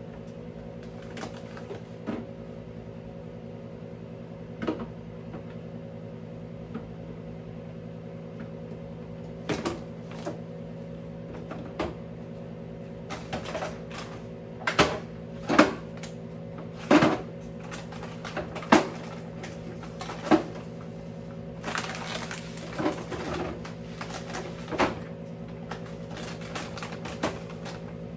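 Irregular knocks, clacks and clatters of household items being handled and set down, a couple of dozen in all, loudest and most frequent in the middle and latter part, over a steady low hum.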